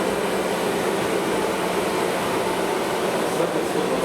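Steady running noise inside a tram car: an even rumble and hiss with a constant low hum.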